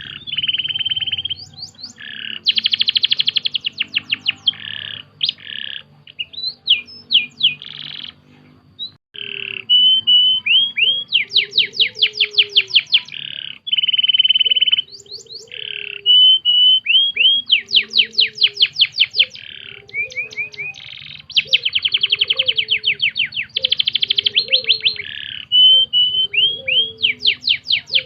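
Domestic canary singing a long, varied song of fast trills and rolls, phrase after phrase with brief pauses. Fainter repeated low chirps run underneath from about a third of the way in.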